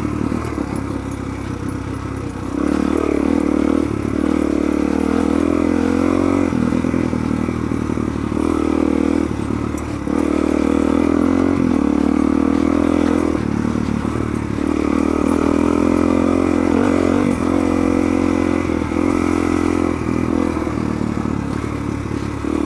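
Suzuki DR-Z400's single-cylinder four-stroke engine under way off-road. It revs up and drops back again and again as the throttle is worked, and gets louder about two and a half seconds in.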